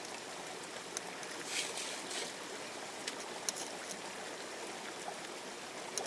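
Steady rush of flowing river water, with a few sharp clicks of stones knocking together and a short splash about a second and a half in.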